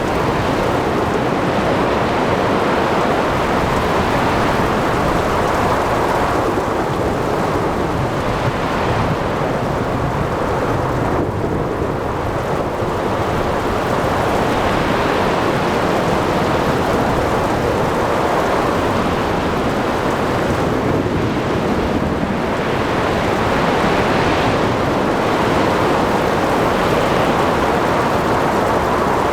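Storm at sea: a dense, continuous wash of heavy rain, wind and waves that swells and eases every few seconds, with thunder rumbling low underneath.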